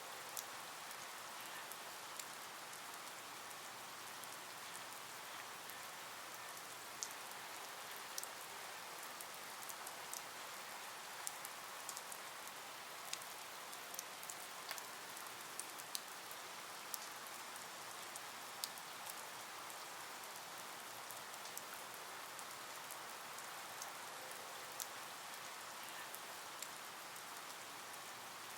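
Faint, steady rain hiss with scattered sharp ticks of drops striking a surface.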